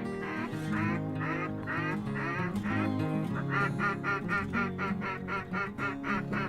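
Duck quacking over background music: a few spaced quacks, then from about halfway a fast run of about four or five quacks a second.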